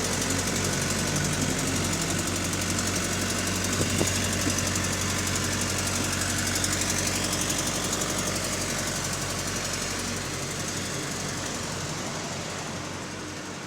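New Routemaster (LT-class) bus's diesel engine running with a rapid, even ticking coming from the engine, an abnormal noise for this type of bus. There is a single knock about four seconds in, and the sound fades over the last few seconds.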